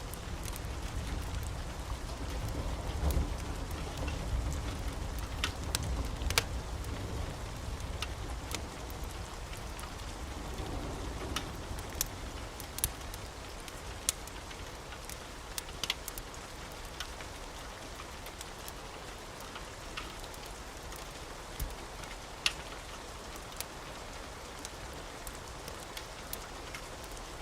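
Wood fire in a fireplace crackling, with sharp pops scattered irregularly over a steady hiss. A low rumble of the burning is stronger in the first several seconds, then eases.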